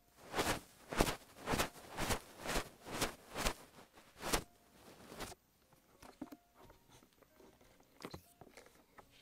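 An ASMR ear-massage tool brushing across a microphone in quick strokes, about two a second, for roughly four seconds, then only a few faint scattered taps and clicks.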